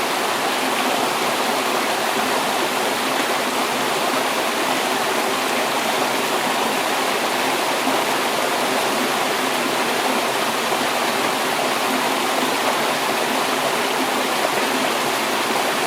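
Mountain stream rushing steadily over rocks, a loud, even hiss of water.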